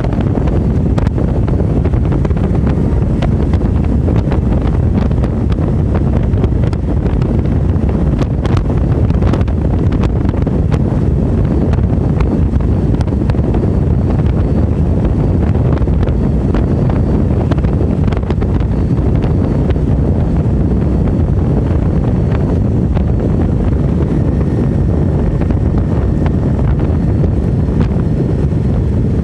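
Wind buffeting the microphone of a camera riding on a moving motorcycle, a loud steady rush, with the motorcycle running underneath it.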